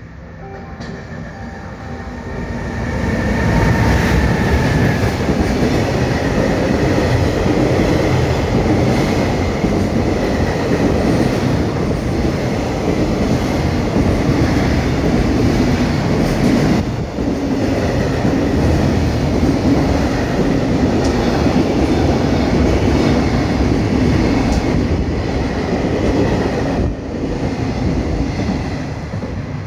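A freight train hauled by an EF210 electric locomotive passing through a station at speed, its long string of container wagons rumbling steadily along the track. The sound builds over the first three seconds as the train arrives, holds, and eases slightly near the end as the last wagons pass.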